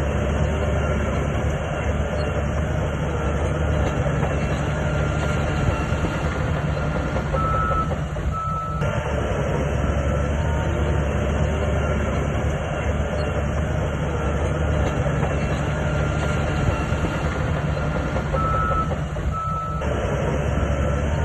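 SHANTUI DH17C2 crawler bulldozer's diesel engine running steadily under load, with the continuous clatter of its steel tracks. Brief high beeps sound twice, about eight and nineteen seconds in.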